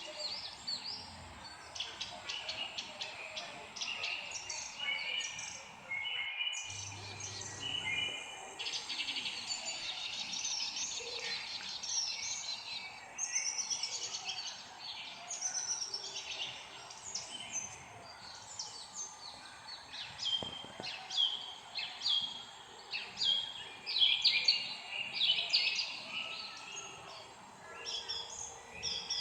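Many birds chirping and singing at once, a busy chorus of short high chirps and trills that briefly cuts out about six seconds in.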